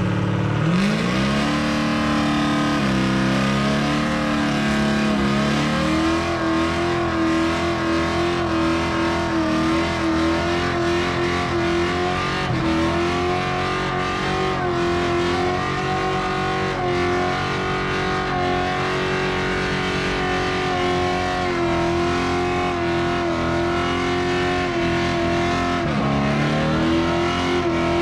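Pickup truck engine revving up and held at high revs for a long burnout, with tyres squealing. The revs sag briefly near the end and climb back.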